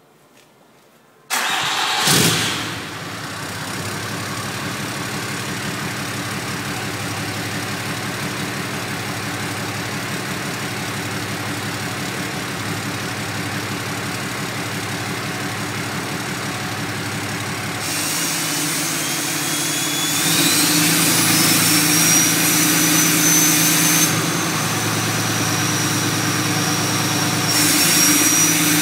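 A tuned 6.7 L Cummins turbo-diesel with a 4-inch AFE straight exhaust starts up about a second in and settles into a steady idle. Later it gets louder and a high whistle comes in, rising in pitch.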